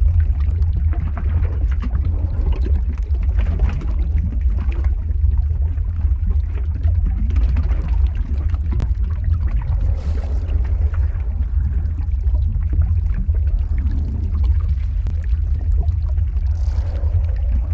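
Lava-flow ambience sound effect: a steady deep rumble with many small crackles scattered through it.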